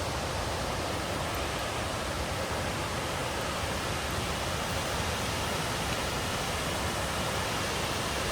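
Waterfall rushing: a steady, even noise with no pauses or changes.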